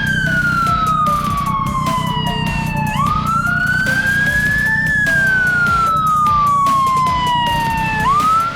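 Emergency-vehicle siren on a slow wail: the tone climbs, then glides down over about five seconds and starts again, with a steady low rumble underneath.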